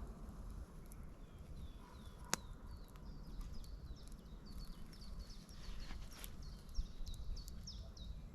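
A small songbird singing a long run of quick high chirps, each sliding down in pitch, with one sharp click about two seconds in.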